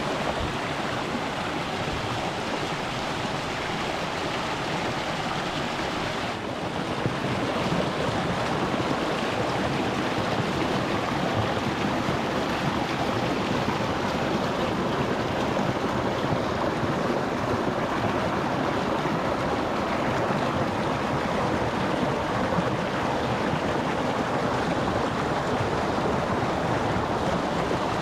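Water rushing and splashing over rocks in a small mountain stream, heard close to the surface as a steady hiss; it dips briefly about six seconds in and runs a little louder after.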